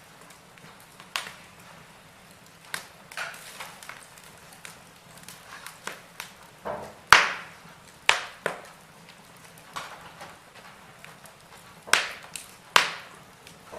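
Wood fire crackling in a fireplace: irregular sharp pops and snaps over a faint hiss, the loudest pop about seven seconds in and two more strong ones close together near the end.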